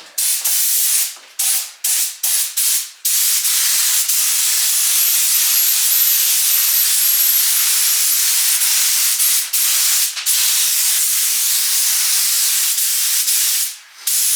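Spray gun hissing as it lays on thick primer through a large 2.5 mm nozzle. It starts with a few short trigger pulls, then runs in a long steady spray with a couple of brief breaks, and stops near the end.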